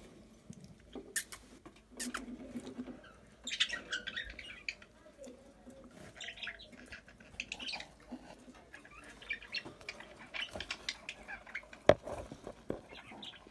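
Budgerigar chick making short, irregular high chirps and squawks, mixed with small clicks and scratching, and one sharp knock about twelve seconds in.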